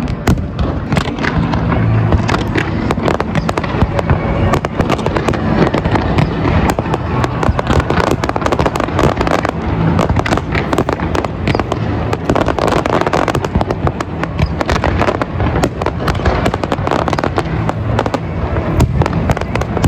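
Fireworks display going off continuously: a rapid barrage of bangs and crackling over a steady low rumble of overlapping bursts.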